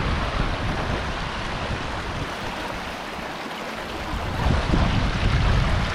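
Waterfall and creek water rushing, a steady hiss, with low rumbles of wind on the microphone from about four and a half seconds in.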